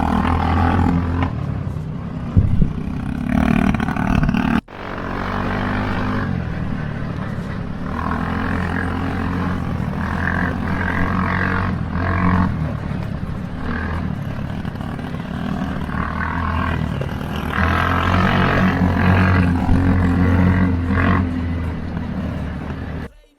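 Motor vehicle engine running, its pitch rising and falling as it is revved, with a brief break about four and a half seconds in.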